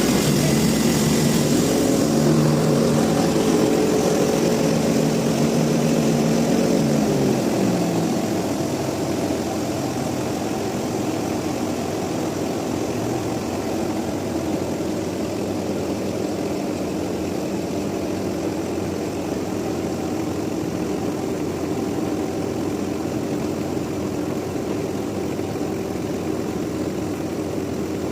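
Sawmill machinery engine running steadily. About seven seconds in, its pitch falls and it drops a little in level, then it keeps running evenly.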